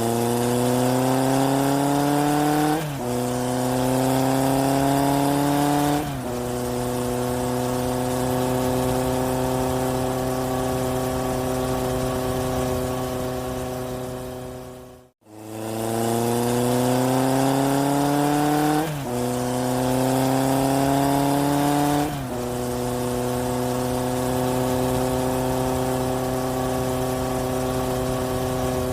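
Truck engine sound accelerating, its pitch rising and dropping back at two gear changes, then running at a steady pitch. The same recording plays twice in a loop, with a short dropout about halfway.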